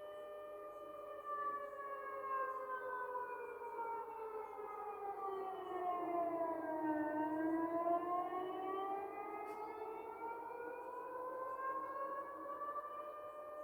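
Air-raid sirens wailing. One holds a steady tone while another slides slowly down in pitch for about six seconds, then climbs back up.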